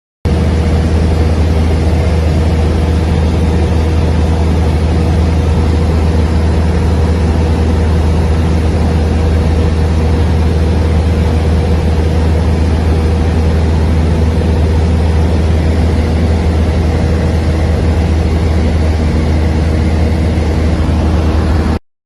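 A large engine running steadily, a deep even drone with a few held tones above it. It starts abruptly and cuts off just before the end.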